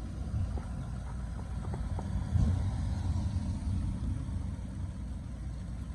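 Low, uneven outdoor rumble with no clear source, with a few faint ticks.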